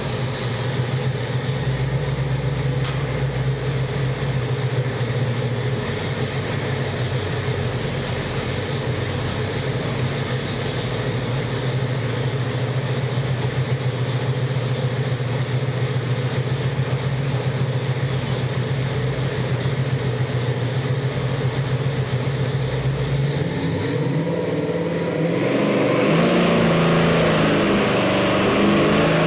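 Pontiac 455 V8 crate engine with a hydraulic roller cam and MSD Atomic EFI running on an engine dyno at a steady idle. About three-quarters of the way through it is revved and gets louder, its pitch rising.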